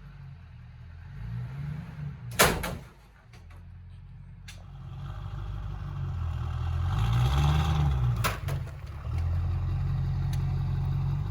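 LB7 Duramax diesel V8 of a lifted pickup pulling a car by a strap on its spoiler. The engine runs low, then revs up and pulls hard in the second half. A loud sharp metallic bang comes about two and a half seconds in, with lighter clanks later, as the spoiler gives way and the trunk lid is yanked open.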